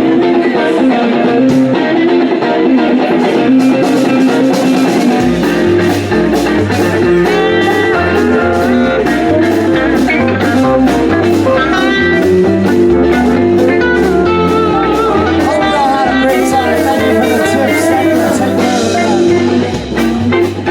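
Live blues band playing, guitar lines over drums, with the bass guitar joining about five seconds in.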